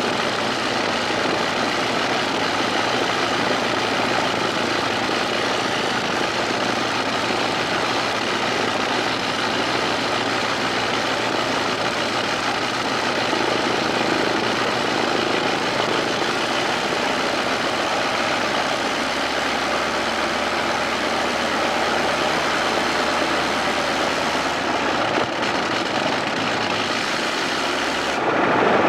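Bristol Scout's rotary engine running steadily on a ground run after a hand-swung propeller start, with a short break in the sound right at the end.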